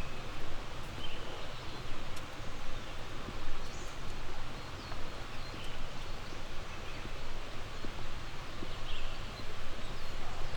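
Small songbirds giving short chirps every second or so over a steady rushing outdoor background.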